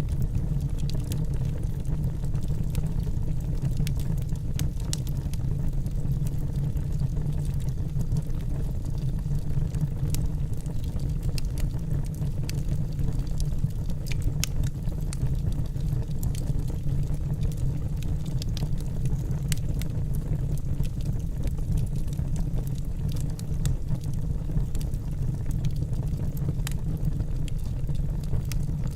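Wood logs burning in a fireplace: a steady low rumble of the fire with frequent small, sharp crackles and pops scattered irregularly throughout.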